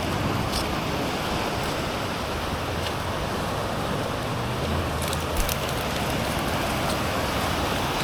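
Steady wind and sea-surf noise rushing across the microphone, with a few faint clicks about five seconds in.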